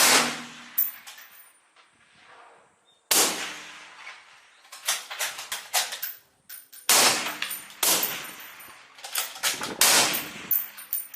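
Gunfire: a single shot, another about three seconds later, then a quick, irregular string of a dozen or so shots over the last six seconds.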